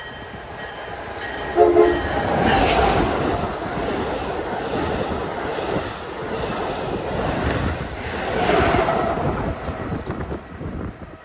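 Passenger train passing at speed, with a short horn blast about a second and a half in. The rush of wheels on rail swells, eases off, swells again, and fades near the end.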